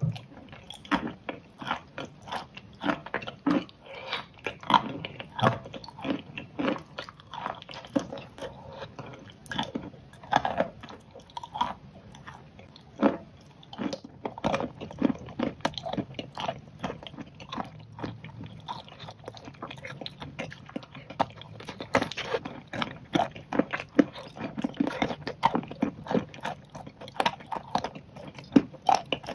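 Close-miked eating sounds of a person biting and chewing a soft food: irregular wet mouth clicks and smacks, several a second.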